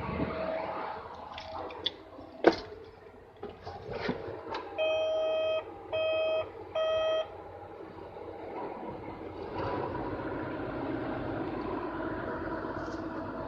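A few sharp knocks and clicks, then three long electronic warning beeps about a second apart, then a steady heavy-vehicle engine running from about ten seconds in.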